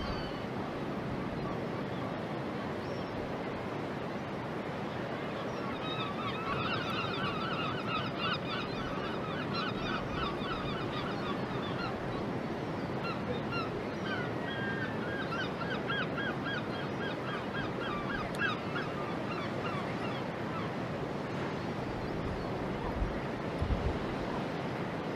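A bird calling in two long runs of rapid repeated calls, each lasting about six seconds, over a steady background hiss.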